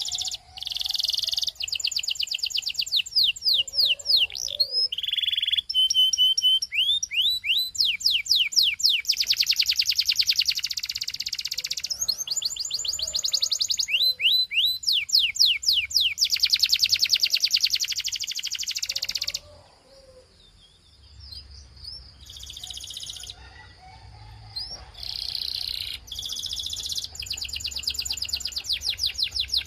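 Belgian canary singing a long song of fast rolling trills and rapid down-slurred notes. Near the middle it breaks off into a few quieter scattered notes, then resumes with more fast trills.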